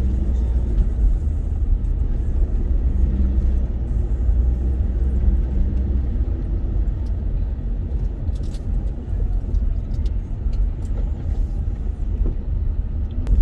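Steady low rumble of a moving vehicle's engine and road noise, heard from on board, with a few light rattles.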